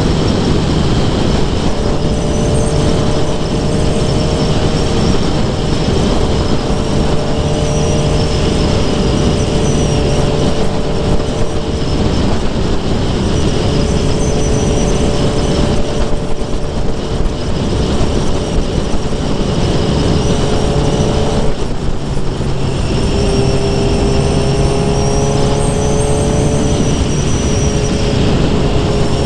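Suzuki GSX-R750 inline-four engine and exhaust running at steady revs, its note drifting slowly in pitch. About 22 seconds in the note breaks briefly, then climbs again.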